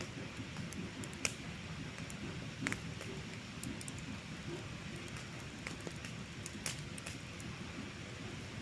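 Wood campfire crackling, with scattered sharp pops and snaps, a couple of them louder, over a steady low rushing background.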